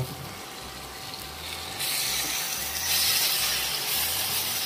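Onion-tomato masala with chilli powder sizzling in hot oil in a kadai. The sizzle gets louder about two seconds in and again about a second later.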